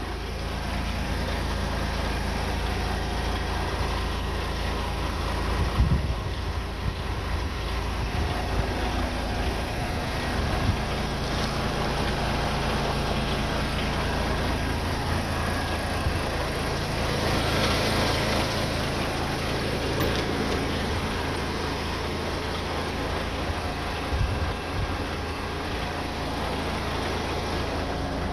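Diesel engine of a DAF XF 510 truck running steadily, with a short rise of hissing noise about two-thirds of the way through.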